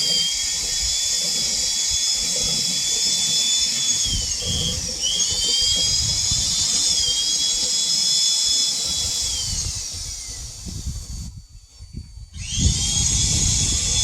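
A small motor's high whine, its pitch sliding down and back up a few times, over a low rumble. It cuts out for about a second near the end and comes back with a rising whine.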